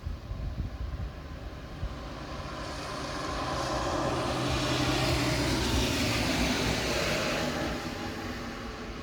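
A vehicle passes on a wet road: the hiss of its tyres swells to a peak about five seconds in and then fades, with a low engine hum under it during the pass.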